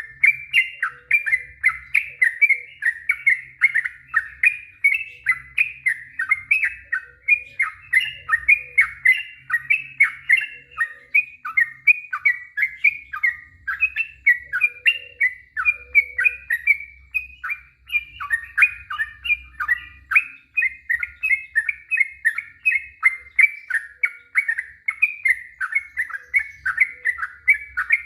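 Sooty-headed bulbul (trucuk) singing a long, unbroken run of short whistled notes, about three a second. This is the rapid-fire 'ropel panjang' song that keepers play to stir up other bulbuls.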